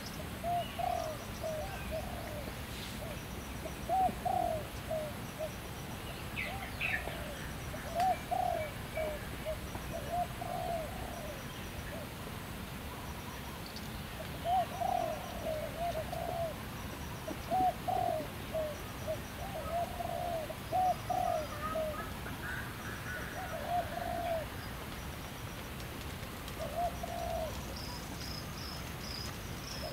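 Bird calls in a forest: short, low phrases of a few notes each, repeated every second or two, over faint, evenly repeated high chirps.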